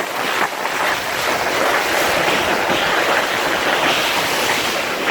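Steady rushing hiss of water at sea, even throughout, with no distinct splashes.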